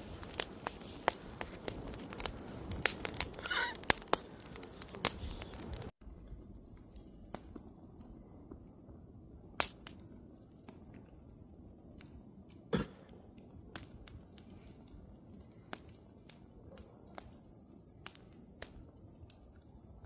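Wood fire crackling, with irregular sharp pops and snaps over a low rumble. About six seconds in the sound cuts and carries on quieter and sparser, with two louder pops.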